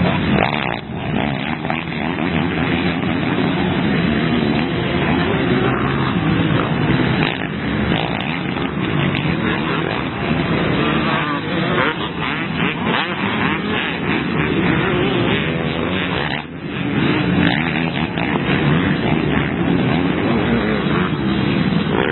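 Motocross bikes racing, engines revving up and down continuously, with a brief dip in the noise about two-thirds of the way through.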